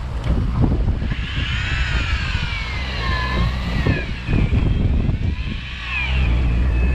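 Shimano Plemio 3000 electric fishing reel winding in line. Its motor whine rises and falls in pitch as the load on the heavy weighted tenya rig changes, over the steady low rumble of the boat's engine.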